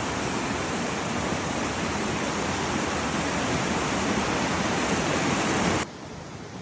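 Creek in spring runoff rushing loudly, a steady dense roar of water. Near the end it drops suddenly to a much fainter rush.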